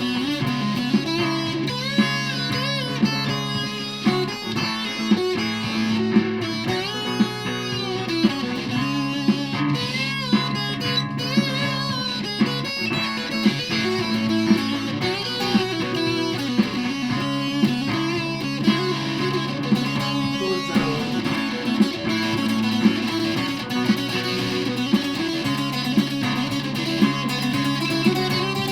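Electric guitar, an Aria Pro II Thor Sound, played through a Behringer fuzz pedal: held low notes under bending lead lines. A sharp beat about once a second keeps time underneath.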